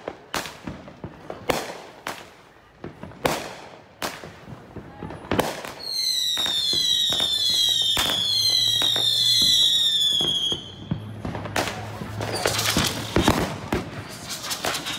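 Consumer firework cake firing a string of sharp bangs from bursting shells. About halfway through come several overlapping whistles, each falling slightly in pitch, for about five seconds. A dense run of crackling pops follows near the end.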